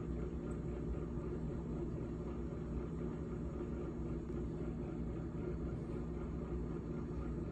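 GE GTH18XCTZRBB top-freezer refrigerator running: a steady hum made of several low tones, unchanging throughout.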